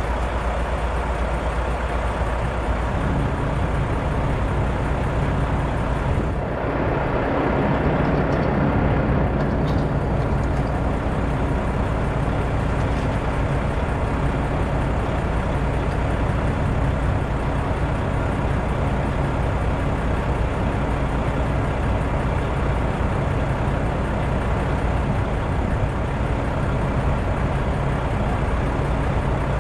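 A truck engine running steadily with a low, even hum, its tone firming up about three seconds in.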